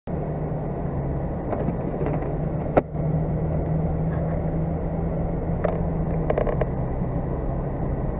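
A vehicle running steadily, heard from inside the cab as a constant low engine and road hum, with a sharp click about three seconds in and a few light rattles.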